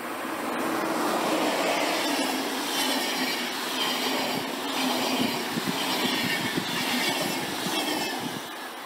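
A train passing on the main line: wheel and rail noise swells about a second in, holds for several seconds with some high wheel squeal and clatter, and falls away near the end.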